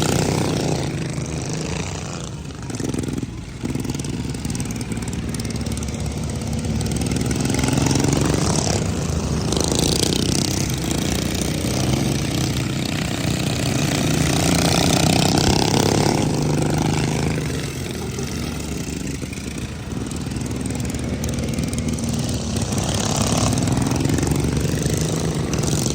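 Racing lawn mower engines running hard around a dirt track, their pitch rising and falling and the sound swelling and fading as the mowers pass.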